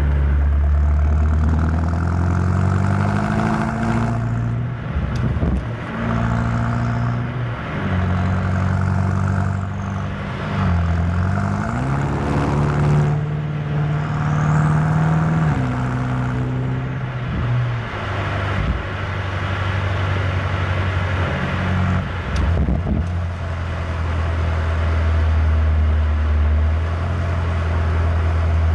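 BMW M8 Competition's twin-turbo V8 under way, its note climbing as the car accelerates and dropping back at gear changes several times in the first half, then running at a steadier pitch while cruising.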